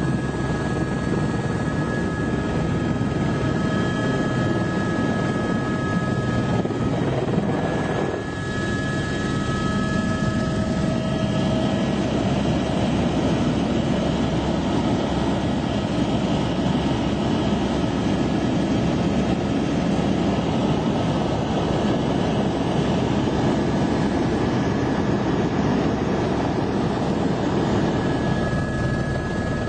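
Helicopter running steadily: a dense engine and rotor noise with a steady high whine over it, dipping briefly about eight seconds in.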